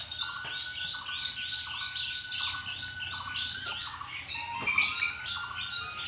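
Birds chirping: short falling chirp notes repeated quickly, about four a second.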